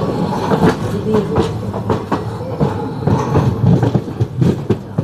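A passenger train running on its rails: a steady rumble with repeated, irregular clattering knocks from the wheels passing over rail joints.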